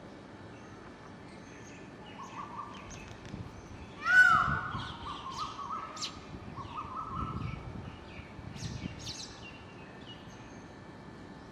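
Animal calls outdoors: a loud call that rises and falls about four seconds in, several shorter calls, and small high chirps scattered through.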